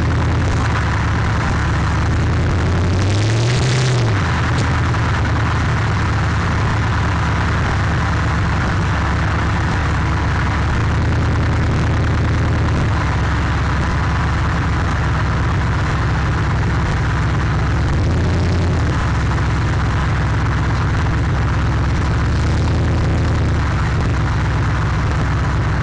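A loud car engine running steadily while cruising, heard from inside the car and distorted by the overloaded microphone. The engine note rises and falls once about three seconds in.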